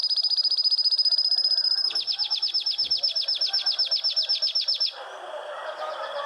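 Small birds trilling: fast, even runs of high chirps, changing to a slightly slower trill of downward-sweeping notes about two seconds in. About five seconds in it drops abruptly to softer, busier chirping.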